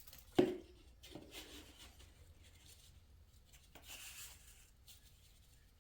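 A thump, then scraping and rustling of dry mortar mix being scooped and added to a batch of mortar, with a brief pouring hiss about four seconds in.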